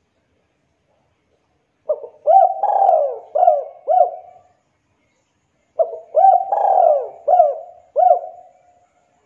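Spotted dove (tekukur) cooing: two phrases of about five coos each, the first starting about two seconds in and the second about six seconds in.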